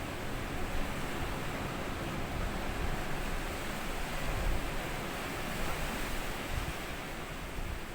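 Small sea waves breaking and washing up over a sandy beach, a steady wash that swells a little in the middle.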